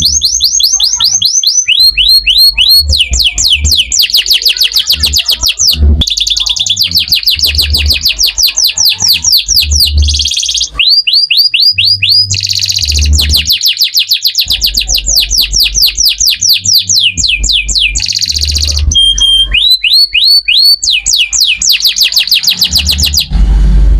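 Domestic canary singing loudly and without pause: long rapid trills of falling whistled notes, many a second, broken now and then by short harsh buzzing rolls. It is the kind of full, hard-going canary song used as bait (pancingan) to set other canaries singing.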